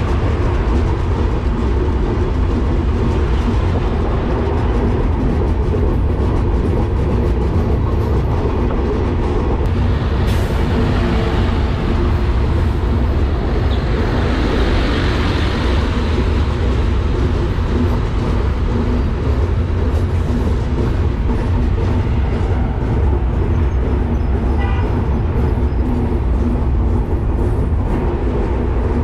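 Bangladesh Railway express train's LHB passenger coach running at speed, heard from the coach window: a steady, loud, deep rumble of wheels on rail. A brief hiss swells about halfway through.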